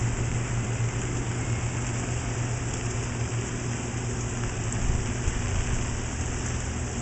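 Steady rain falling and pattering on an umbrella, with fine drop ticks, over a steady low hum.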